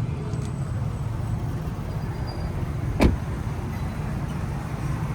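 A Toyota Camry's engine idling with a steady low hum, and a single sharp thump about three seconds in.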